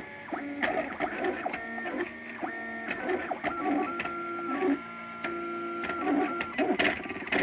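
MakerBot Thing-O-Matic 3D printer's stepper motors whining as the print head moves back and forth, a string of steady tones that jump to a new pitch every fraction of a second to a second and a half, with light clicks between moves. The printer is laying down what the owner takes for the top layer.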